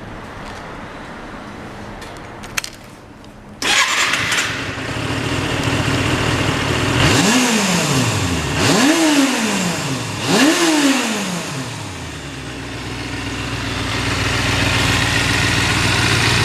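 Kawasaki Balius II 250 cc inline-four with its stock muffler starting up about three and a half seconds in. It is blipped three times, each rev rising sharply and dropping straight back, then settles into a steady idle.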